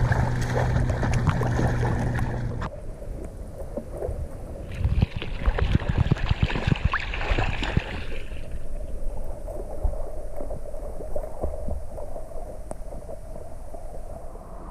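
Sea water splashing and rushing around a camera carried by a swimmer doing strokes in the open ocean, with a burst of heavier splashing in the middle. A steady low hum runs for the first few seconds.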